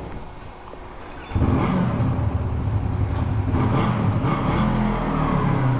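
2017 Yamaha YZF-R3's parallel-twin engine starts up about a second and a half in and runs steadily.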